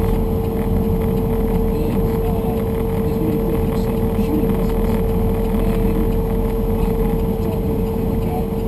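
Truck engine running at a steady speed: a low drone with one constant whine above it and no revving.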